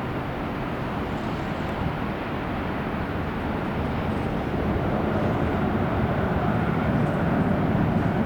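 Jet engines of an Airbus A350-1000 (Rolls-Royce Trent XWB) at take-off power, a steady rushing jet noise that gets louder about halfway through.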